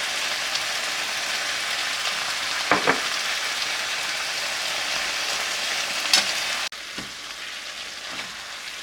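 Food sizzling in a hot pan as it is stir-fried, with two sharp knocks along the way. The sizzle drops suddenly to a quieter level a couple of seconds before the end.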